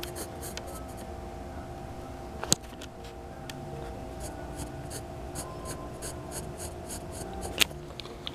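Sketching: a drawing tip scratching across the drawing surface in many short, quick strokes, with two sharp taps, over a steady low hum.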